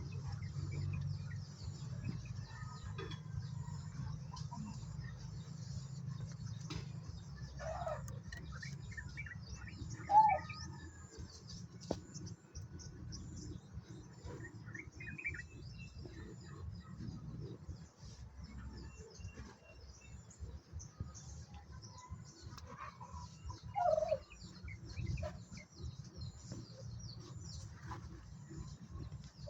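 Poultry calling on and off, short scattered calls and chirps, the loudest about ten seconds in, over a steady low rumble.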